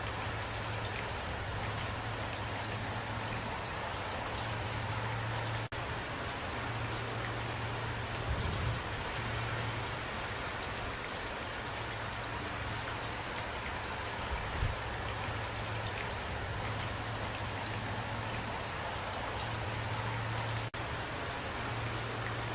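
Steady rain falling, an even hiss of drops on surfaces over a low hum. The sound cuts out for an instant twice.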